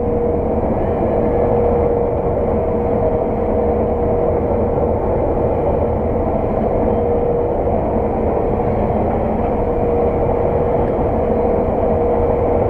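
Claas Lexion 600 TT combine running steadily while harvesting oilseed rape: a constant engine and machinery drone with a steady mid-pitched whine.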